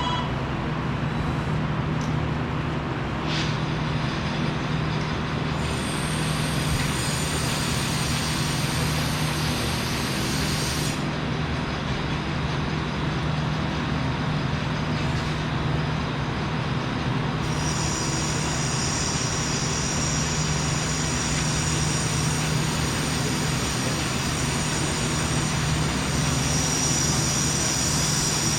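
Steady machinery drone of a welding and fabrication shop floor, with a low hum and a high-pitched whine that cuts in about six seconds in, drops out around eleven seconds, and comes back for the rest.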